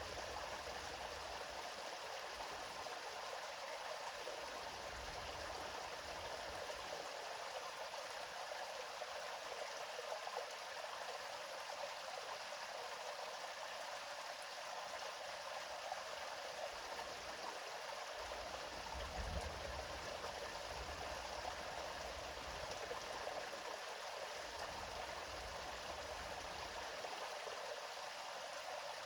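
River water flowing over stones in a steady, even rush, with a faint low rumble coming and going underneath.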